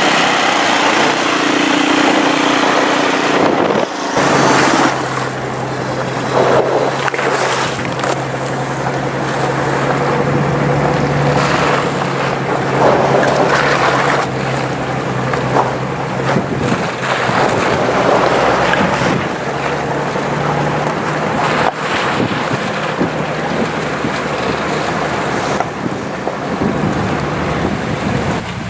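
Nissan Patrol 4x4 engine running steadily while driving off-road; its note drops to a lower pitch about four seconds in. Repeated bursts of rushing noise sound over the engine.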